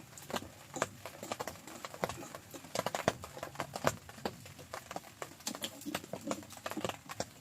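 Irregular light taps and knocks, several a second, some sharper than others.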